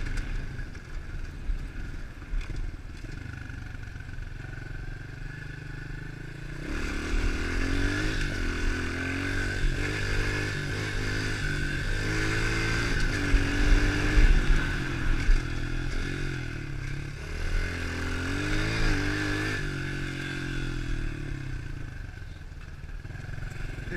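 110cc pit bike's single-cylinder four-stroke engine running at low revs, then revving up and down through the gears from about six seconds in, and easing back off near the end. Wind rumbles on the microphone throughout.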